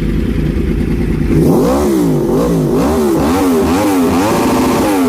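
Yamaha R1 sportbike with an aftermarket exhaust idling, then revved hard about six times in quick succession from about a second and a half in, the last rev held a little longer before dropping back toward idle.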